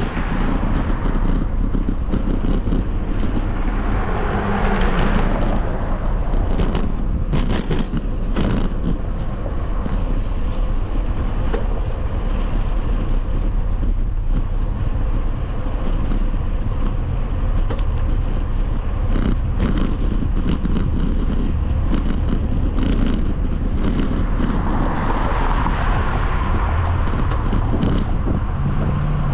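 Steady wind and road noise from riding a bike, swelling twice, with a few short knocks.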